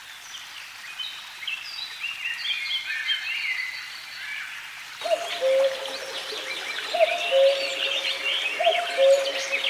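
Small birds chirping and twittering in short, high notes. About halfway through, music starts under the birdsong: a low two-note figure repeating about every second and a half.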